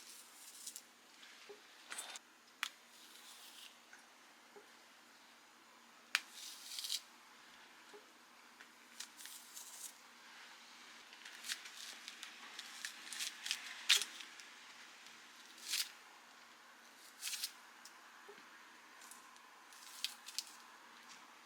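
Wild matsutake (pine mushrooms) being torn into strips by hand: a string of short, soft fibrous rips and scratches at irregular intervals, with a few small sharp clicks.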